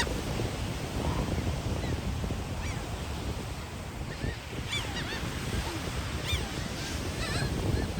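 Seagulls calling, several short calls about halfway through and near the end, over steady surf and wind noise on the microphone.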